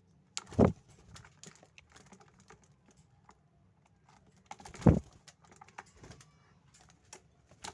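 Javan myna moving about its cage: scattered small clicks and taps, with two louder knocks about half a second and about five seconds in.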